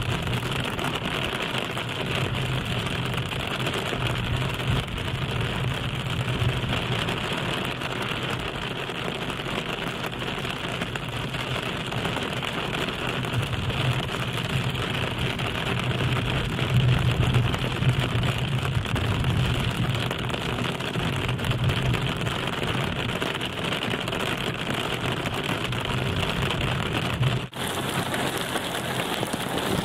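Heavy thunderstorm rain falling steadily, an even hiss with a low hum beneath it. Near the end it breaks off for an instant and comes back brighter.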